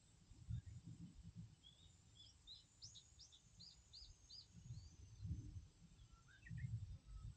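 A small songbird singing faintly: a quick run of about a dozen repeated high notes starting about two seconds in and lasting a couple of seconds, with a few scattered chirps near the start and near the end. Irregular low rumbling bumps sound underneath.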